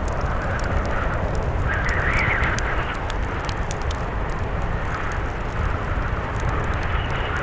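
Blizzard wind blowing steadily with a deep rumble, its gusts swelling and easing, the strongest about two seconds in. Over it a wood fire crackles with small sharp pops.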